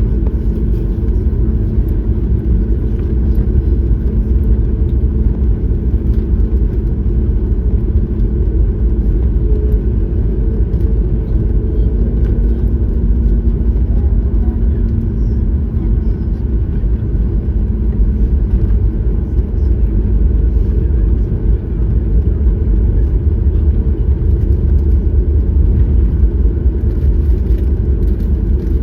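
Steady low rumble of cabin noise inside a Boeing 737-9 MAX, its engines and airflow heard from a passenger seat.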